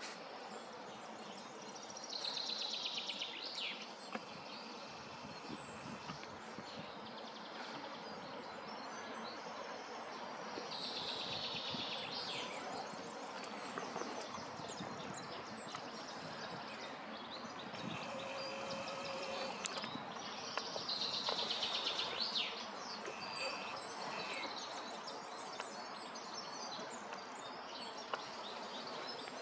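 A songbird sings the same short phrase three times, about every nine seconds, each phrase falling in pitch, over a steady outdoor hiss.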